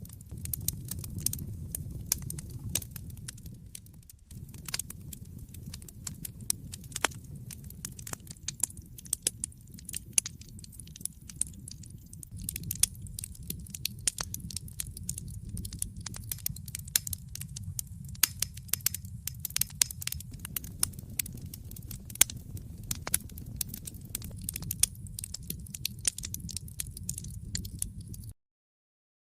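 Wood fire crackling in a fireplace: frequent sharp, irregular pops and snaps over a low steady rumble. The sound cuts out completely about a second before the end.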